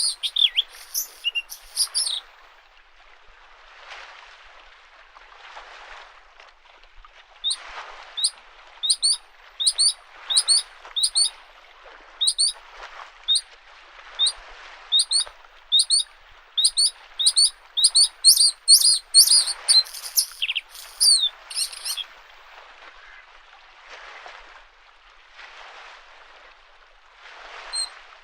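Bluethroat singing: runs of sharp, high, repeated chirping notes, a short run at the start, a long one from about 7 to 22 seconds, and more near the end. Small lake waves wash against the shore softly about every two seconds underneath.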